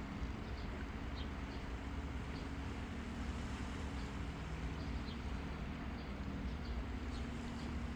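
Outdoor ambience: a steady low hum with many brief, high bird chirps scattered through it.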